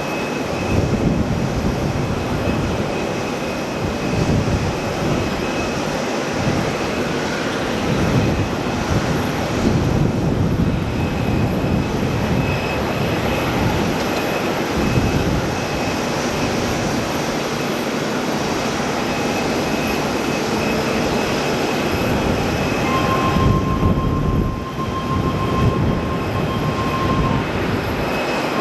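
Jet airliner engines rumbling loudly and steadily as a plane passes during takeoff or landing. A faint high whine runs through it, and a second steady tone joins near the end.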